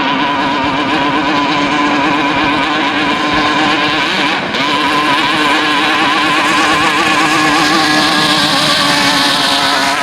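Two-stroke 550 cc jet-ski engine in a racing boat, running at high revs through a racing exhaust pipe with a steady, loud buzz; the revs dip briefly about four and a half seconds in, then hold.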